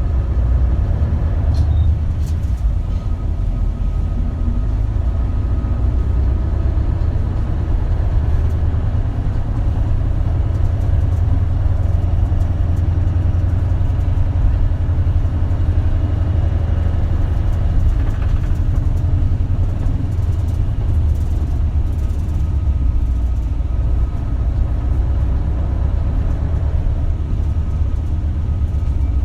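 Isuzu Erga city bus's diesel engine running while the bus drives along, a steady low rumble with a faint constant whine above it, heard from inside the cabin. A few small rattling clicks come in the first few seconds.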